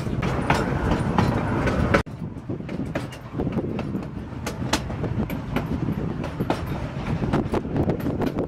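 Ride noise of the narrow-gauge Cumbres & Toltec passenger train: a steady low rumble of the rolling coaches with irregular clicks and clacks from the wheels on the track. The sound drops off abruptly about two seconds in and carries on more quietly.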